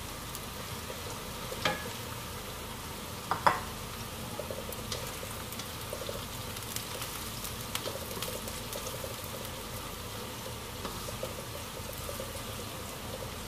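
Small pieces of tempeh deep-frying in hot oil in a wok, a steady sizzle, with a spatula stirring and scraping through them. Two sharp knocks come about two and three and a half seconds in, the second the loudest, followed by small clicks and ticks as the stirring goes on.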